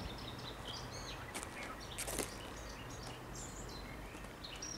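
Several birds chirping and singing in short, varied calls over a low, steady background hum, with one brief knock about two seconds in.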